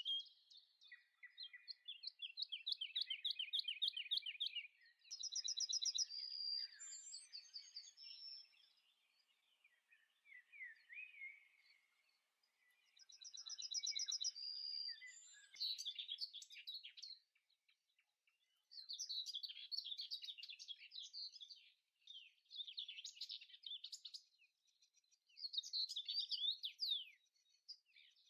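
Small birds singing: a series of high trilling and chirping phrases, each a second or two long, with short pauses between.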